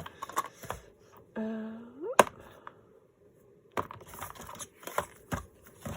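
Scattered light clicks and taps of small craft supplies being handled on a table, with a short rising hum of a woman's voice about a second and a half in.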